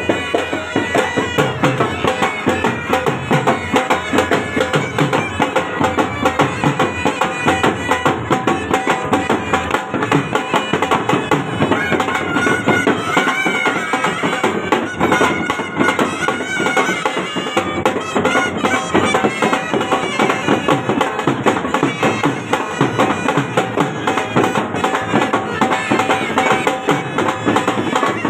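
Traditional folk band music: a droning wind instrument carrying a wavering melody over a fast, steady drum beat.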